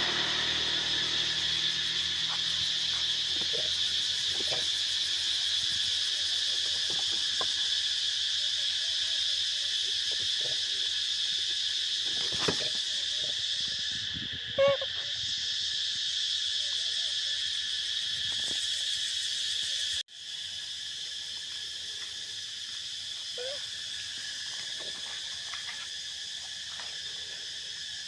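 Steady chorus of forest insects buzzing in several high tones, with scattered small knocks and rustles and a short call about halfway through. The sound drops out abruptly for a moment about two-thirds of the way in.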